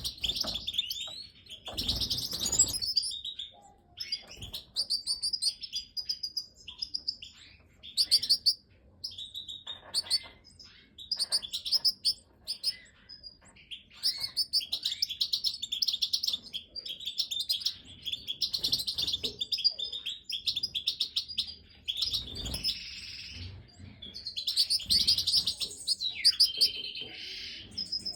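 Goldfinches chirping: bouts of rapid, high-pitched twittering notes with short gaps between them, and two brief low thumps, about two seconds in and again near the end.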